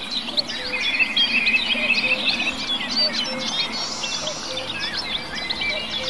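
Several birds singing and chirping at once: many quick short chirps, a fast even trill from about a second in to the middle, and a low short note repeating steadily throughout.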